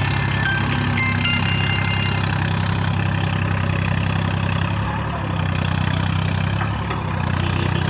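Tractor engine running steadily at a constant speed, a low even hum with a slight dip about five seconds in.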